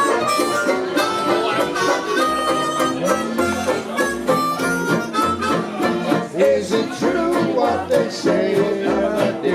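A band playing an upbeat song, instrumental with no singing, over a steady bass beat.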